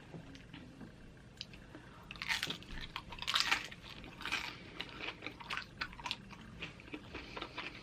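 A person biting into and chewing loaded nachos close to the microphone, the tortilla chips crunching. The loudest crunches come at about two, three and a half and four and a half seconds in, followed by softer chewing crackles.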